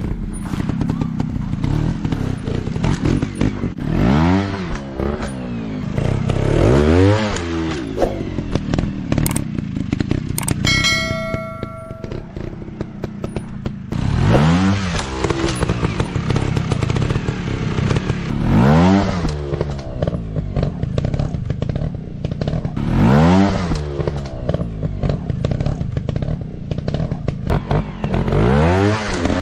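Trail/dirt bike engine revving up and back down about six times, over clatter and steady running noise. A short steady tone sounds once near the middle.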